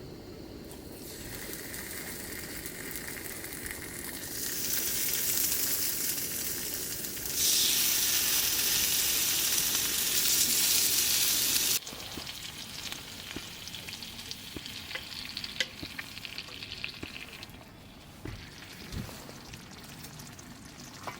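Food sizzling in a frying pan: a steady hiss that grows louder in steps and then drops off suddenly a little past halfway. A quieter sizzle with scattered pops and clicks follows.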